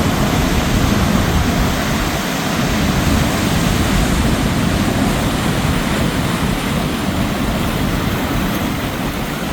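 Ocean surf washing steadily, a continuous rush of water noise heaviest in the low end, with no single wave break standing out.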